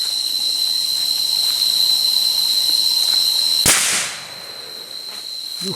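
A single gunshot about two-thirds of the way in, over a steady high-pitched insect chorus; after the shot the chorus partly drops away and the overall level falls.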